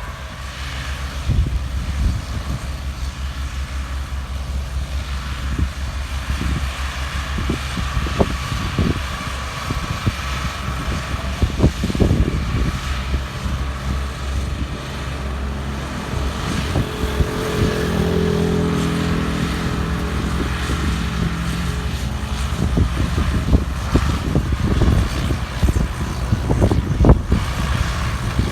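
Ford tractors' three-cylinder diesel engines running hard under load, pulling a heavily loaded trolley, with occasional knocks and clatters. A steady pitched hum joins for a few seconds past the middle.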